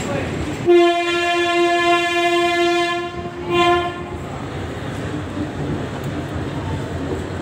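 Locomotive air horn heard from aboard the train: one long blast of about two seconds, then a short blast, over the steady running noise of the coaches.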